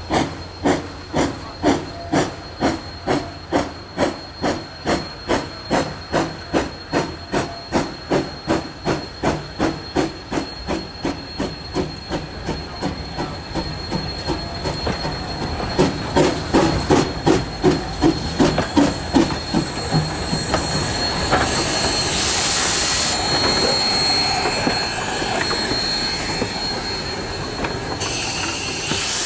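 Narrow-gauge steam locomotive working, its exhaust chuffing in an even beat of about three a second that grows louder past the middle, with a thin high squeal above it. Later the chuffing gives way to a loud burst of steam hiss, and a second, shorter one comes near the end.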